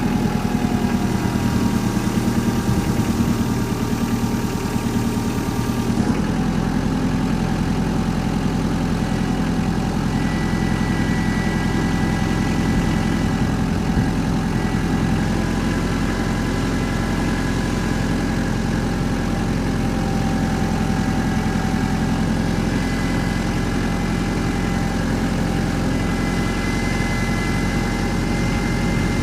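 An engine idling steadily. The sound shifts abruptly about six seconds in, then carries on.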